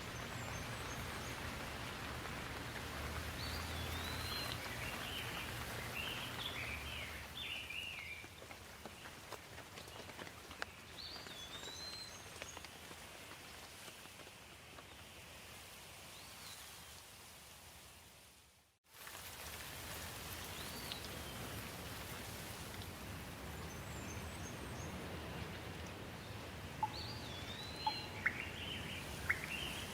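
Steady rain with birds singing over it in short phrases every few seconds. The sound fades out briefly about two-thirds of the way through, then comes back with a few sharp ticks near the end.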